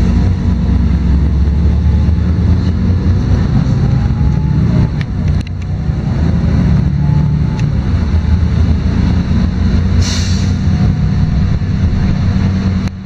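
LiAZ-5292 city bus engine and drivetrain running under way, a steady low rumble heard from inside the passenger cabin, with a faint rising whine as it pulls. About ten seconds in comes a short hiss of air.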